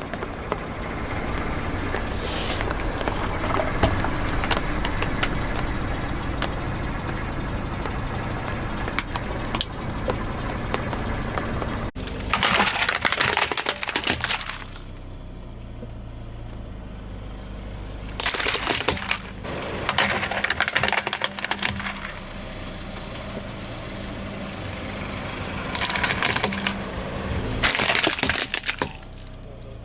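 A car tyre rolling over and crushing crunchy objects: a long stretch of dense crackling and snapping over a low rumble, then several shorter bursts of loud crunching.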